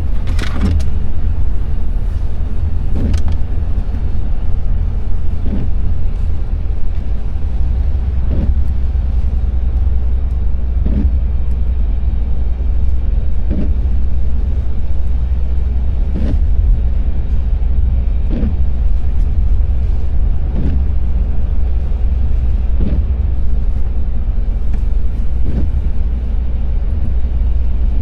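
Car driving in the rain: steady low road and engine rumble, with a short windscreen-wiper sweep about every two and a half seconds.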